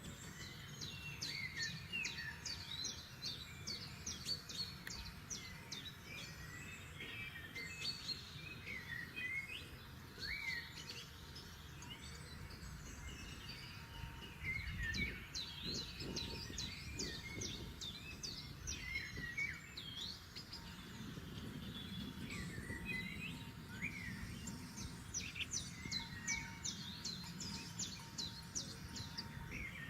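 Several forest birds singing at once: a dense mix of quick high chirps, trills and short whistled phrases that runs without a break, over a low steady rumble.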